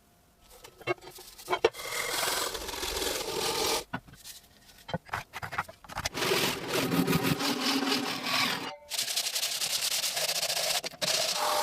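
Hand abrasive work on the old billhook: rough rubbing and scraping strokes, with a few light knocks in the first two seconds. The sound comes in several stretches that break off abruptly.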